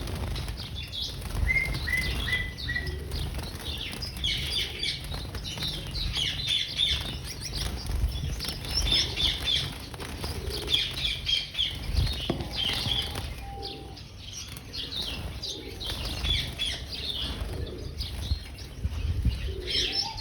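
Finches chirping in quick, overlapping twitters, with fluttering wings and small thuds of birds hopping or flying about.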